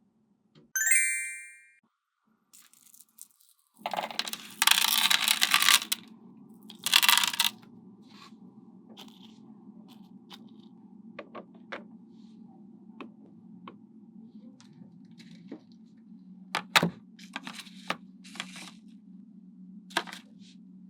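Small hard magnetic balls clicking and snapping together as they are placed, with a ringing ding about a second in and two hissing rushes between about four and seven and a half seconds in, over a low steady hum.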